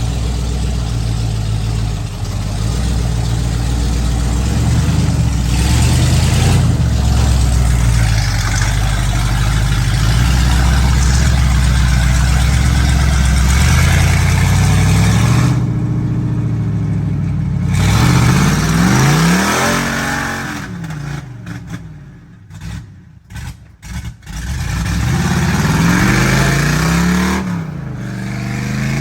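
Ford mud truck engine running hard and loud at high, steady revs, then revved up and down several times in the second half, the pitch rising and falling, with a brief dip in loudness between the revs.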